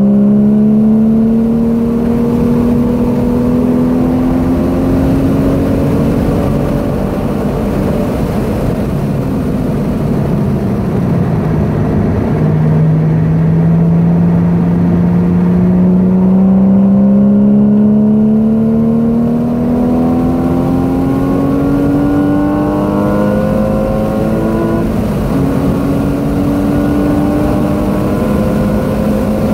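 Porsche 981 Boxster S's flat-six engine heard from inside the cabin while lapping a track. Its note climbs steadily in long pulls under acceleration and drops back in steps between them as it shifts and lifts for corners.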